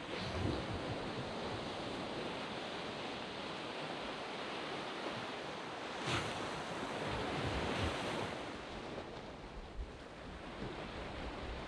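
Waves breaking on a sandy beach and washing up the shore in a steady rush of surf. A wave breaks just after the start and another about six seconds in, with light wind on the microphone.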